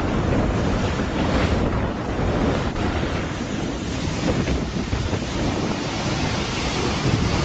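Loud, steady rush of typhoon wind and churning water, with the wind buffeting the microphone.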